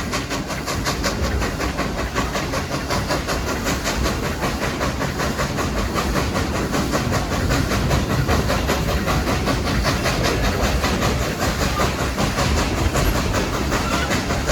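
A steam train under way, heard from one of its passenger cars behind Baldwin steam locomotive #70. It is a steady, continuous running noise with a fast, even beat.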